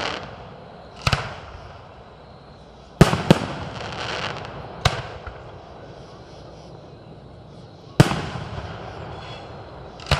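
Fireworks display: separate sharp bangs a second to three seconds apart, including a quick pair around three seconds in, each trailing off in a fading rumble and crackle.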